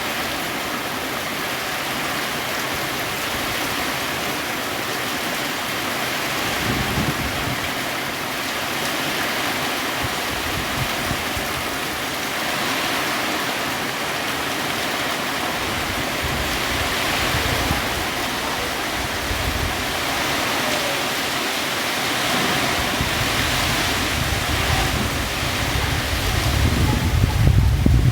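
Heavy rain falling in a steady hiss, with strong wind gusts buffeting the microphone in low rumbles that grow strongest near the end.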